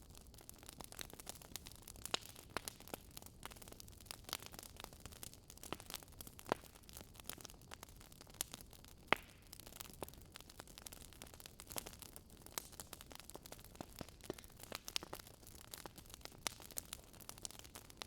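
Recorded log fire crackling: irregular sharp pops and snaps over a soft, low hiss of burning.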